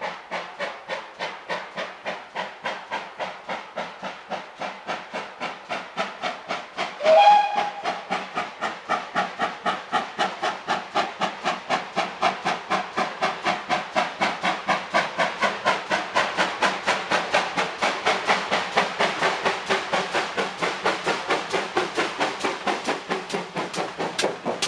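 Steam locomotive working hard, its chuffing exhaust beats steady at first, then quickening and growing louder as it picks up speed. A short whistle blast sounds about seven seconds in.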